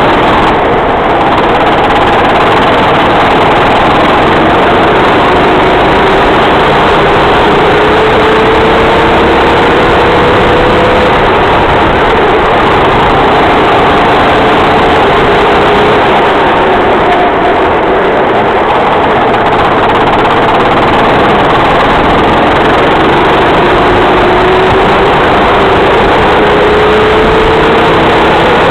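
Racing kart engine running at race speed under a dense, steady hiss, its pitch climbing slowly along the straights and dropping back for the corners, twice in the stretch.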